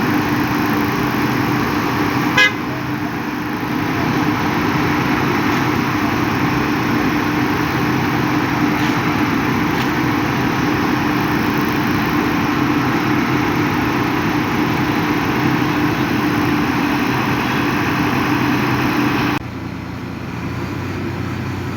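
Heavy engine running steadily on a construction site, with a steady droning tone over the noise. A sharp click comes about two seconds in, and the sound drops abruptly and becomes quieter near the end.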